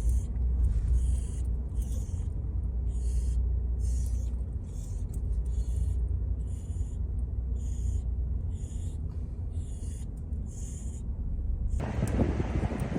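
Low, steady engine rumble of a Ford F-350 dually pickup sitting on a truck scale, with a repeating high chirp about one and a half times a second. About a second before the end a louder, wider noise comes in and the chirping stops.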